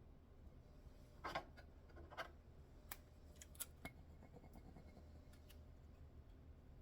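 Faint handling sounds of packing an order: two short rustling swishes about a second and two seconds in, then a few light clicks, over a quiet room.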